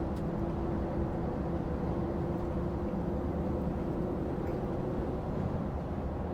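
Steady drone of a lorry's diesel engine and road noise, heard from inside the cab while driving, with a constant hum running through it.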